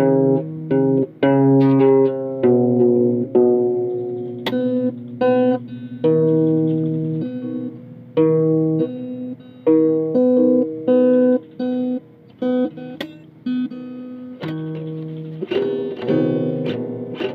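Guitar music: plucked notes and chords that each start sharply and die away, in a loose, unhurried rhythm.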